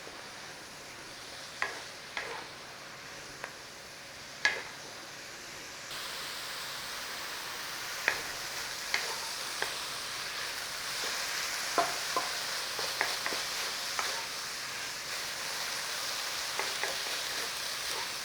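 Stir-fry vegetables sizzling in a hot pan as they are stirred, with scattered sharp knocks of the stirring utensil against the pan. The sizzle gets louder about six seconds in.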